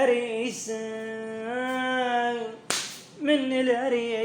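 A voice singing long, held, wavering notes with no clear words, and a single sharp crack nearly three seconds in.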